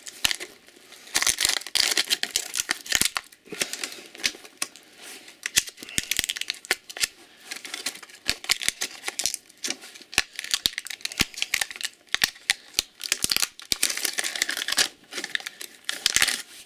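Handling noise as the refrigerator compressor's parts are worked by hand: continuous crinkling and rustling with many small sharp clicks and taps.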